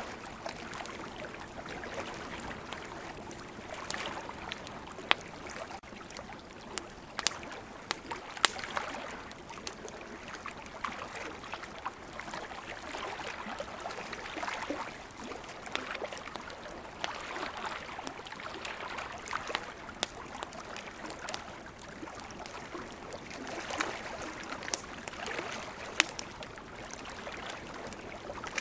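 Campfire crackling, with sharp pops every second or two over a steady wash of sea water that swells and eases.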